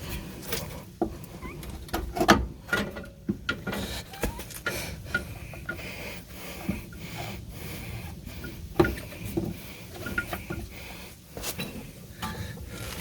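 Irregular knocks, clicks and scrapes of hand work fitting a replacement rear strut into a Subaru Tribeca's suspension, with the two loudest knocks about two seconds in and about nine seconds in.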